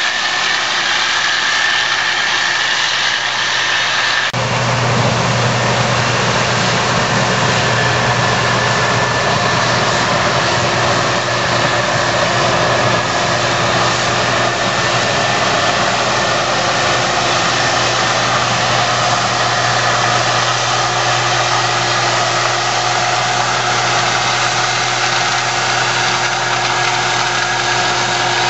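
Case IH Axial-Flow combine running steadily while harvesting corn, with a constant engine and machinery drone. About four seconds in, a click is followed by the sound shifting to a deeper, stronger hum.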